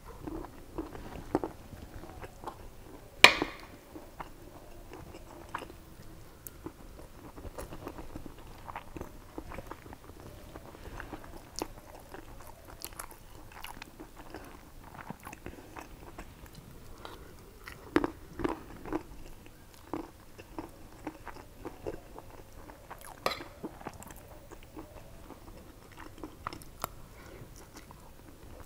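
Close-up chewing of a mouthful of mutton biryani, with short sharp clicks of a metal spoon on the plate scattered throughout. The loudest click comes about three seconds in.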